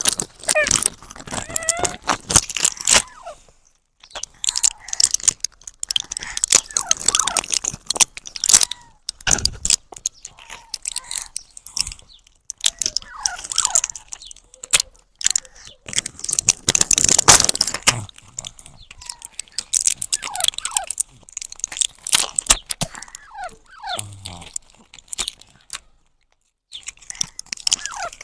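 Pet parrot making short squeaky chirps among many sharp clicking and smacking sounds, in runs broken by a few brief pauses.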